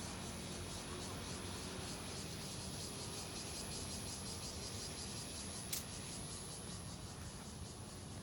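Insects calling in a steady, rapidly pulsing chorus with a thin high continuous tone, and a single sharp click about halfway through.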